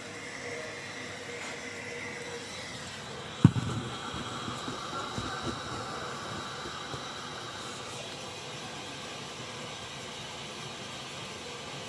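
A steady hiss with one sharp knock about three and a half seconds in, followed by a few lighter clatters.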